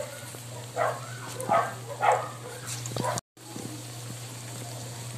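Breaded cheese sticks frying in hot cooking oil, a steady sizzle over a low hum. Three short, loud calls stand out between about one and two seconds in. The sound cuts out for a moment a little after three seconds.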